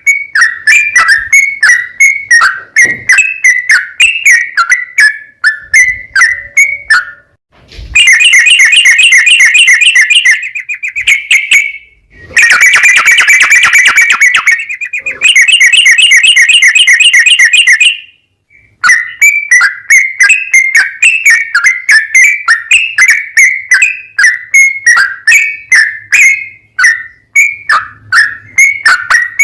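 Yellow-vented bulbul (trucukan) singing loudly in quick chattering notes, broken by two long, very fast trills (the 'ropel'), the first about eight seconds in and the second, longer one from about twelve to eighteen seconds.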